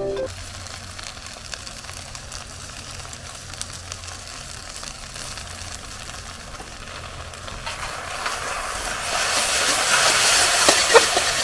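Food sizzling and hissing in a hot Chinese wok over a campfire, growing much louder about eight seconds in, with a few sharp ticks near the end.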